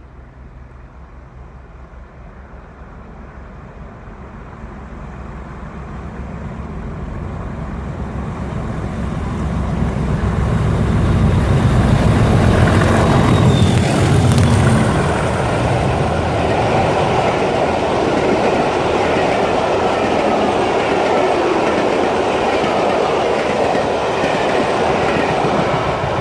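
A pair of Class 37 diesel locomotives approaching and passing with a charter train. The engine sound grows steadily louder to a peak about halfway through, then gives way to the steady rumble and clatter of the coaches rolling by.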